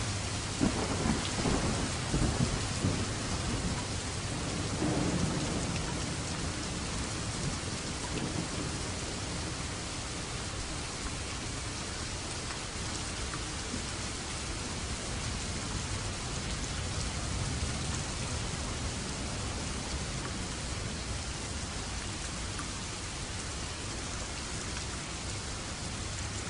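Steady heavy rain with thunder rumbling and crackling in the first few seconds, then rolling away, leaving the rain.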